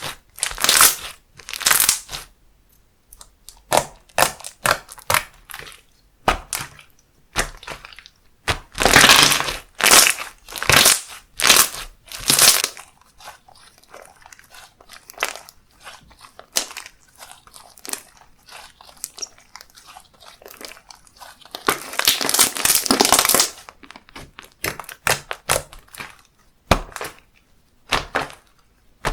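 Handmade slime being pressed, squished and stretched by hand, giving irregular bursts of crackling and popping. The sound comes in clusters, with longer runs about nine, twelve and twenty-two seconds in.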